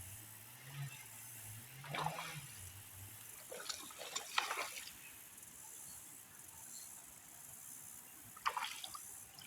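Creek water splashing: one splash about 2 seconds in, a quick run of splashes around 4 seconds, and one more near the end.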